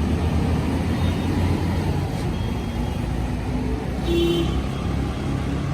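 Steady low engine rumble and road noise of a moving city bus, heard from inside, with a short high-pitched beep about four seconds in.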